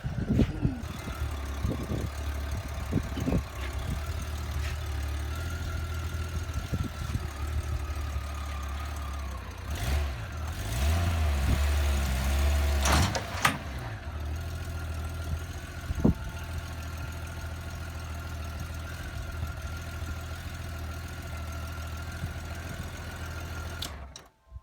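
Honda Gold Wing motorcycle engine running at idle, revving up for a few seconds about halfway through as the bike is loaded, then switched off near the end.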